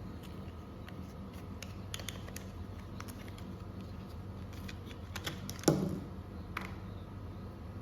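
Scattered light clicks and taps over a low steady hum, with one louder knock a little under six seconds in.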